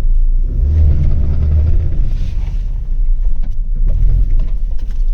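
Maruti WagonR driving through a right turn, the car's rumble overlaid with a rapid 'kat-kat-kat' clicking from the front end. It is typical of a worn drive shaft joint, which the mechanic thinks is the left drive shaft's bearing.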